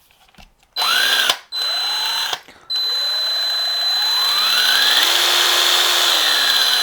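Porter-Cable 20V cordless impact driver spinning free with no load on its variable-speed trigger. Two short spin-ups come first, then a longer run whose motor pitch climbs gradually, holds and eases down slightly, with a steady high whine over it.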